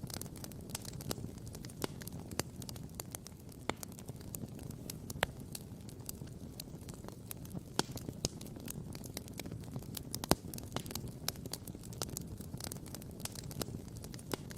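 Wood campfire crackling and popping: sharp snaps at irregular intervals, a few louder pops, over a low steady rumble.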